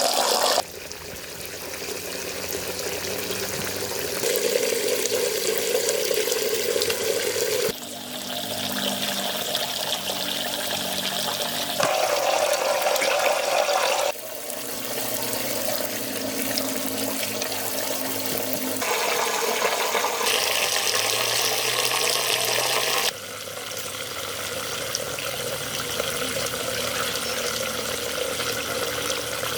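Water running and pouring, heard as several cut-together stretches that change abruptly every six to nine seconds.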